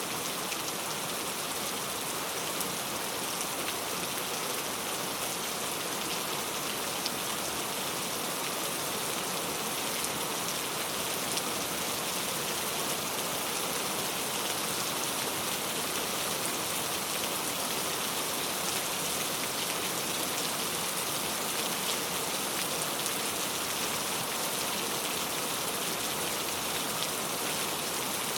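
Steady rain falling on a surface, a dense even patter of drops with fine individual ticks and no let-up.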